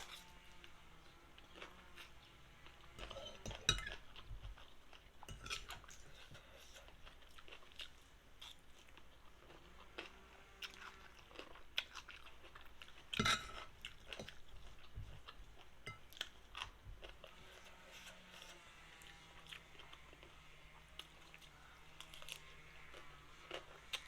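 A person chewing a meal of noodles with fish paste, faint smacking and crunching with scattered small clicks and taps, two louder ones about 4 and 13 seconds in.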